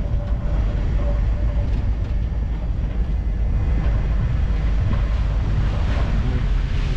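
Steady low rumble of wind buffeting the microphone together with road and driveline noise from a moving Ford F-250 pickup, heard from its open bed.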